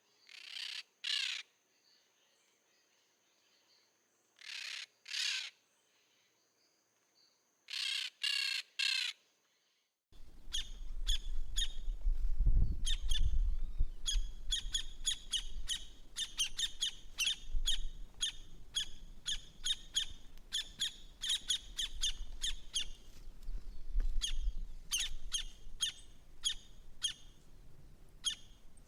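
Birds calling: harsh, raspy calls in twos and threes over a steady high tone, then, after an abrupt change about ten seconds in, many birds chirping rapidly over a low rumble.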